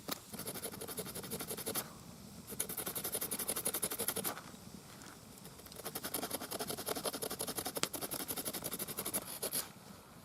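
A small hand saw rasping back and forth in quick strokes, cutting a nock slot into the end of a wooden arrow shaft. It comes in three spells of fast sawing with two brief pauses between them.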